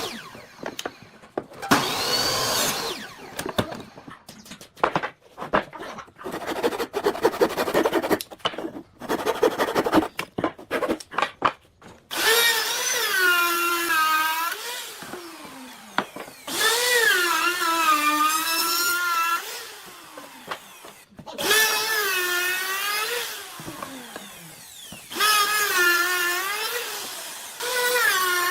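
Woodworking power tool. It starts with a string of short, irregular bursts and clicks, then runs in stretches of a few seconds with a whine that sags and recovers in pitch as the tool takes load in the wood.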